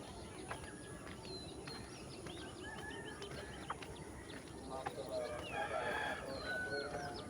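A rooster crowing once, about five seconds in, against many small birds chirping and twittering.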